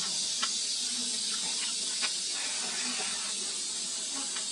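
Close-up chewing of fried chicken and rice: irregular small clicks from the mouth over a steady background hiss.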